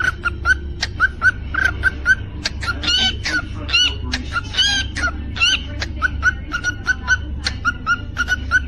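Cockatiel singing: quick repeated chirps, several a second, broken about halfway through by a few longer whistled notes. Sharp ticks are scattered among them.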